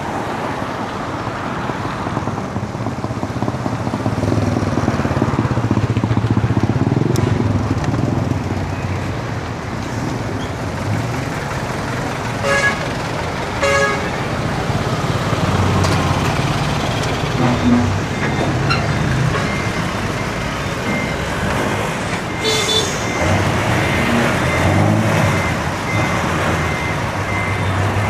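Road traffic passing close by, with engines rumbling and tyres on the road. Two short vehicle horn toots come about twelve and fourteen seconds in. A quick run of high beeps, like a vehicle's warning beeper, fills the last six seconds.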